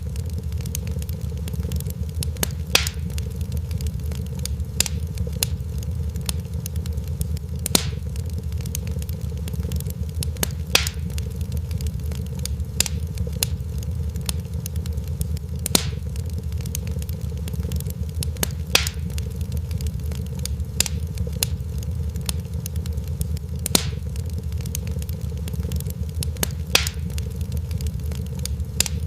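Fireplace fire crackling over a steady low rumble, with many small crackles and a sharper pop every two or three seconds.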